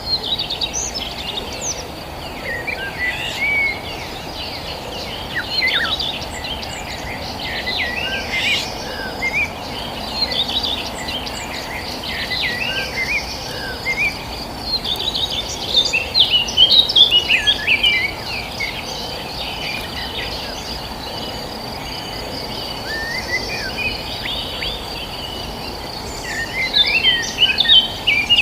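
Several small birds chirping and twittering in quick, overlapping phrases, in busier flurries around the middle and near the end. Under them runs a steady high-pitched insect drone and a constant low outdoor hiss.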